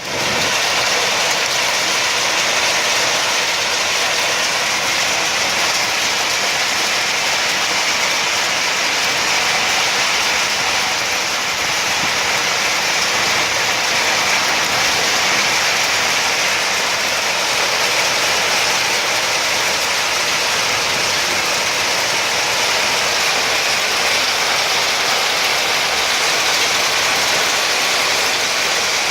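Hailstorm: hailstones pelting down in a dense, steady clatter.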